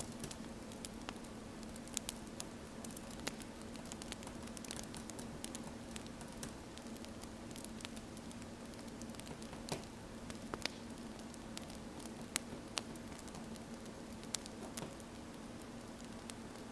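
Wood fire crackling: irregular sharp pops and snaps over a steady soft hiss, mixed with the scratch of a pen writing on paper.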